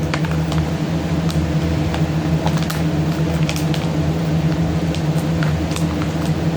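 Steady low mechanical hum, like a fan or air conditioner, with scattered small clicks and crinkles of a small package being opened by hand.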